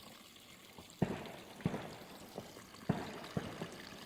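Several gunshots, about four sharp cracks a second or so apart, each trailing off in a short echo, over the steady trickle of running water. Shooting like this is common here, typical of locals firing for celebrations or hunting.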